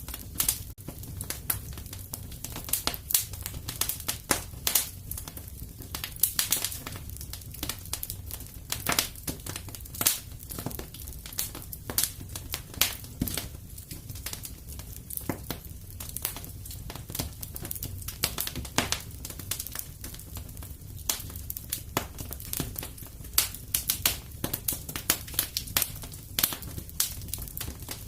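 Fireplace fire crackling: dense, irregular sharp pops and snaps over a steady low rumble.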